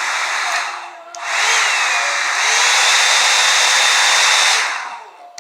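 A Revlon One-Step hair dryer brush blowing steadily with a loud rush of air. Its sound dies away briefly about a second in and again near the end, then comes back each time, as the switch is moved up to the high heat setting.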